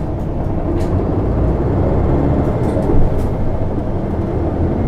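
Isuzu Erga city bus's diesel engine, heard from inside the cabin, pulling away from a stop, its low rumble building slightly as it accelerates. A brief knock about three seconds in.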